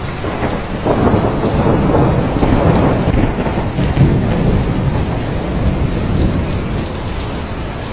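Thunderstorm: steady heavy rain with a roll of thunder that swells about a second in and rumbles on for several seconds before easing off.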